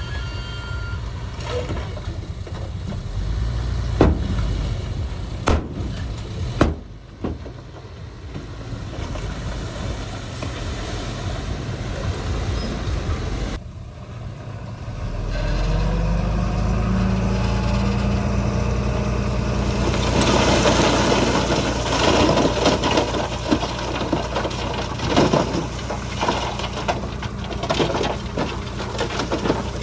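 Heavy diesel earthmoving machinery running, with a few sharp knocks in the first seconds. About halfway through the engine comes in louder under load with a rising note, and over the last third a dense rattling, crackling clatter of metal and soil joins it.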